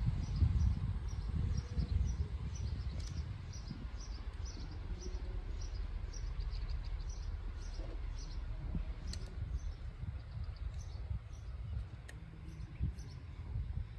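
Low rumble of a streamlined passenger train moving away into the distance, easing off after the first couple of seconds, with a rapid series of high bird chirps, about two to three a second, over it.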